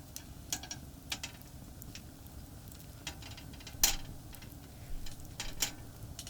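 Steady low rumble of traffic on a nearby expressway, with scattered sharp clicks and snaps over it, the loudest about four seconds in.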